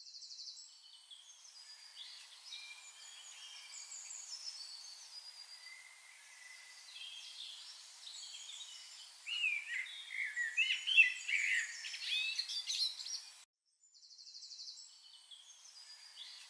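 Several birds chirping and singing over faint hiss, with a busier, louder flurry of rising and falling calls in the middle. The sound cuts out for a moment about thirteen seconds in, then the chirping resumes.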